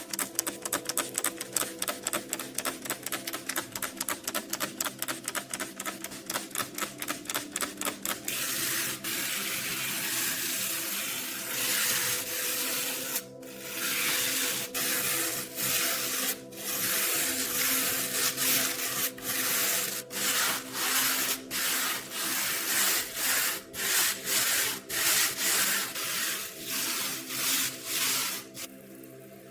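Hand scrubbing of a rusty steel knife blade: quick rubbing strokes, about four or five a second, then a few seconds of steady scraping, then longer, slower strokes about one a second. Steady background music underneath.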